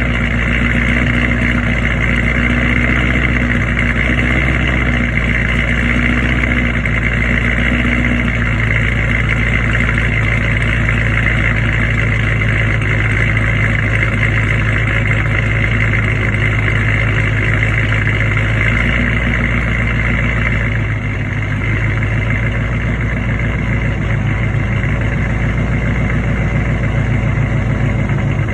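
Dodge Challenger Scat Pack's 6.4-litre HEMI V8, fitted with a 270 cam, long-tube headers and a Flowmaster Outlaw cat-back exhaust, idling steadily with no revving. The tone shifts slightly about eight seconds in.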